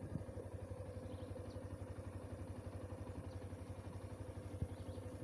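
An engine running at steady low revs, a fast even pulsing, with a light knock just after the start and a sharper one near the end.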